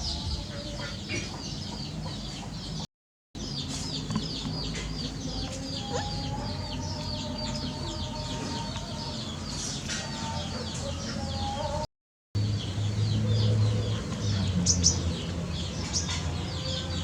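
Chickens clucking and chirping, a dense run of short, quick high calls with a few lower ones among them. The sound cuts out completely twice, briefly.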